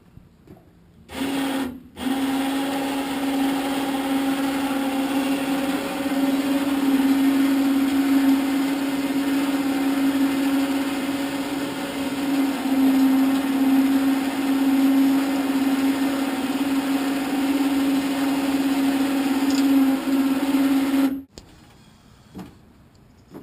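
Electric power winch in a pickup bed running as it pulls an ultralight trike up into the truck, with a steady motor hum. It gives a short bump about a second in, then runs in one long pull of nearly twenty seconds and stops suddenly.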